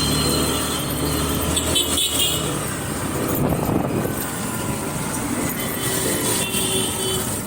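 Riding a motor scooter through city traffic: steady engine and road noise with other vehicles running close by.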